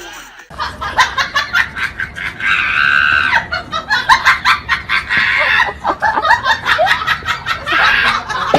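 People laughing hard and shrieking in rapid, choppy bursts.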